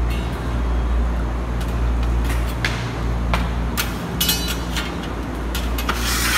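Short scrapes and clicks of a steel trowel and spatula as wax is scraped off onto the trowel and spread on the wall, over a steady low hum.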